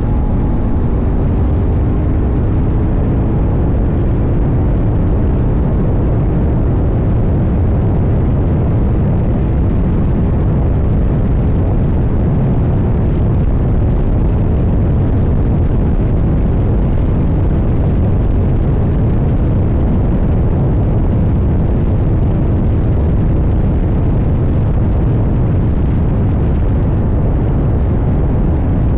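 A CFMoto 800NK's parallel-twin engine running while the bike is ridden at speed. The sound is picked up by a tank-mounted camera and is largely buried under a steady rush of wind on the microphone.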